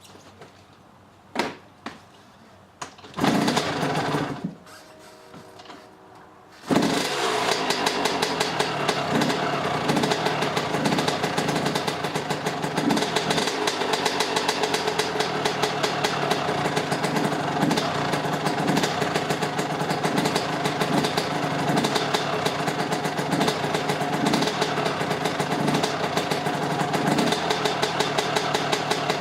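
Suzuki RM125 single-cylinder two-stroke dirt bike engine being kick-started after a rebuild. A couple of knocks from the kick, then it fires for a moment and dies, and a few seconds later it starts and keeps running steadily.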